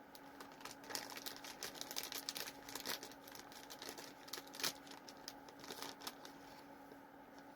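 Plastic candy bag crinkling and being torn open, in quiet irregular crackles with a few louder snaps, the loudest about a second in and again around four and a half seconds.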